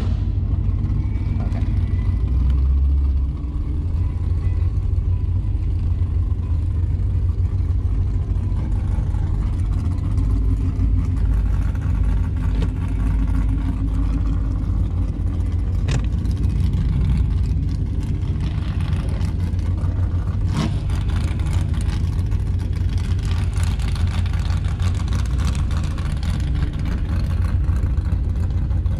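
Car engine running with a steady low rumble, with two brief knocks partway through.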